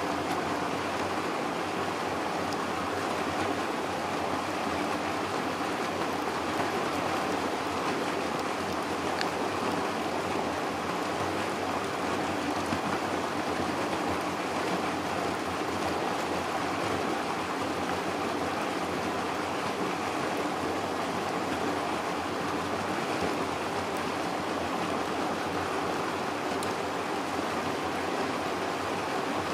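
River water flowing and rushing, a steady even noise.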